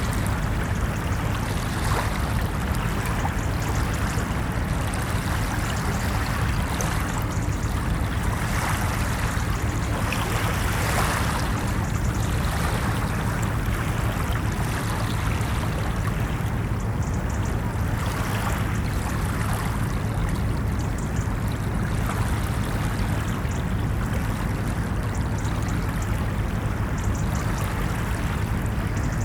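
Ocean waves washing steadily onto a beach, a continuous churning hiss of surf with gentle swells in level.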